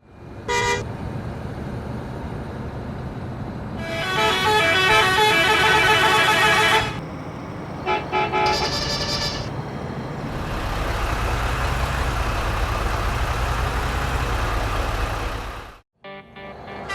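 A vehicle horn: one short blast, then a long blast of several notes at once, then a shorter one. These are followed by a steady low rumble with hiss that cuts off suddenly.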